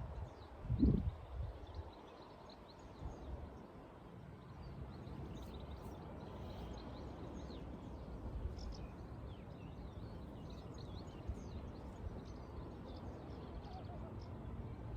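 Outdoor ambience: a steady low rumble with faint, high bird chirps scattered throughout. There is one short, louder low sound about a second in.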